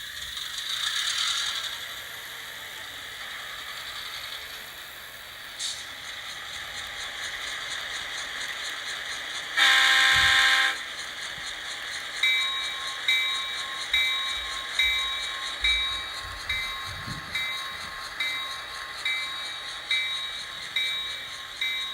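HO scale model locomotive's DCC sound decoder playing through the model's small speaker: a steady hiss of the engine sounds, then one horn blast of about a second near the middle, then the bell ringing steadily, close to one ding a second.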